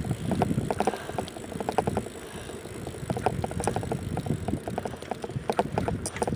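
Riding noise of a bicycle being ridden with the phone recording: a steady low rumble of tyres and wind, with quick, irregular rattling and ticking.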